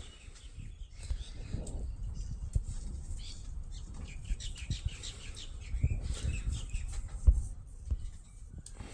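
Young pet bird chirping in quick runs of short high calls, over soft low thumps and rustles, with one sharper knock about seven seconds in.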